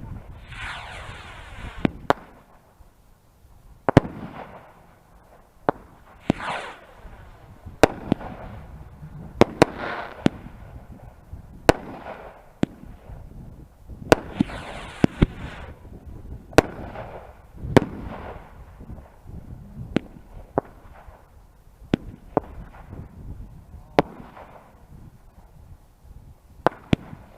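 Fireworks going off: a string of sharp bangs every second or two, with several whistling fireworks sliding down in pitch and a steady crackle beneath.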